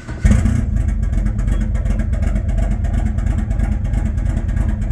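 Mitsubishi 4G63 four-cylinder engine cranking and catching about a quarter second in, then running steadily: a cold start after three months of sitting.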